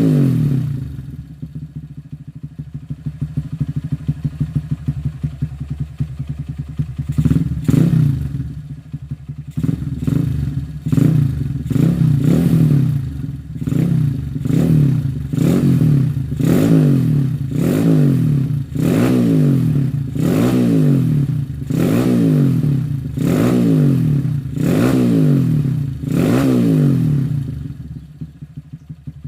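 Motorcycle fitted with a JMF aftermarket exhaust idling with an uneven beat, then revved in short repeated blips, about one a second, before dropping back to idle near the end.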